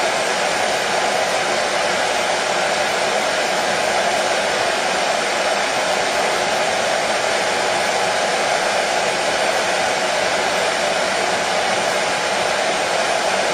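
Hair dryer running continuously: a steady, even rushing hiss with a faint motor hum, strongest in the middle of the range, played as white noise to soothe a colicky baby.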